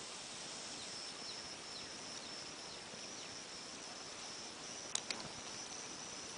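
Quiet room hiss with a faint, steady high-pitched whine, and two light clicks about five seconds in from a toy truck being handled.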